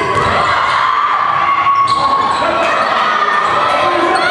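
Basketball game in play: a ball bouncing on the court amid the steady chatter and shouts of many voices.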